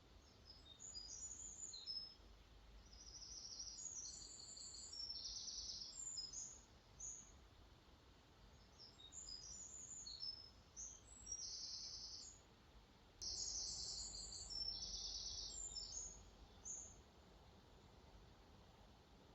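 Songbirds singing in quick, high, chirpy phrases that come and go until a couple of seconds before the end, over a faint steady background hiss.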